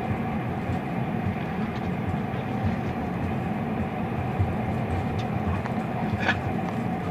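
Steady rumble inside a moving train carriage, with a faint continuous tone running through it. A brief sharp click or squeak rings out once, about six seconds in.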